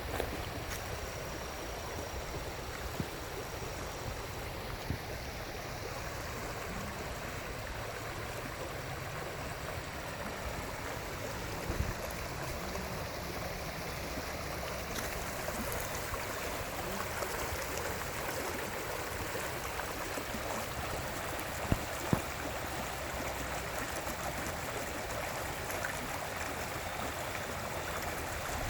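Small woodland brook bubbling and flowing steadily. There is one brief knock about twelve seconds in and two quick knocks later on.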